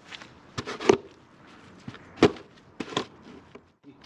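Several sharp knocks and clicks, a handful spaced irregularly, as the wooden spear shaft and its string-lashed point are handled.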